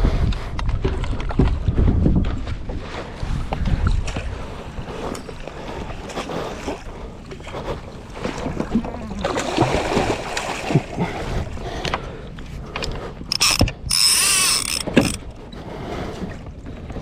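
Fishing reel being cranked as a hooked fish is reeled in, with mechanical clicking and whirring, and a brief louder high whir about three-quarters of the way through.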